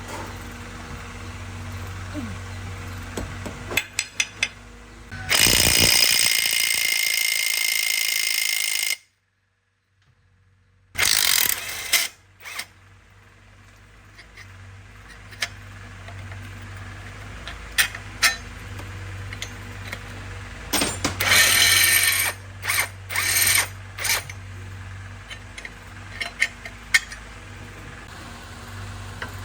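Power tool bursts during truck clutch work: one long burst of about four seconds early on, then shorter bursts later, with scattered clicks of metal tools between. A low, steady engine hum runs underneath, broken by a brief silence after the first burst.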